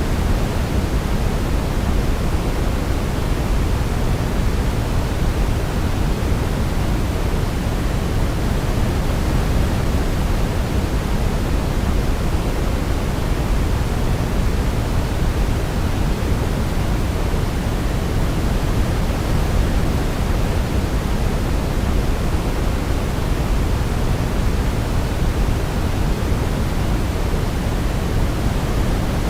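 Steady white-noise sleep sound, weighted toward the low end like pink noise, even and unchanging throughout, with no melody standing out.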